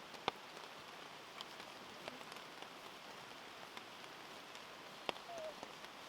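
Steady light rain falling, with scattered louder drops ticking down, the sharpest about a third of a second in and about five seconds in.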